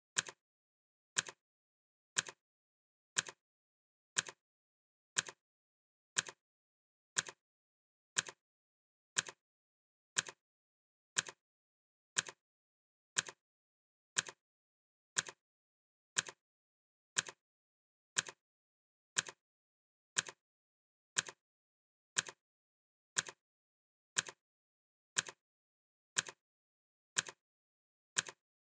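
Clock ticking sound effect: one short, sharp tick every second, evenly spaced.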